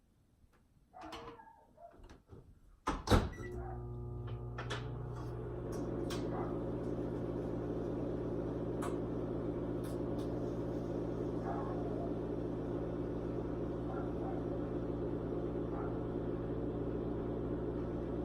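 Microwave oven being set going: a few clicks, then a sharp knock about three seconds in. It then runs with a steady low electrical hum.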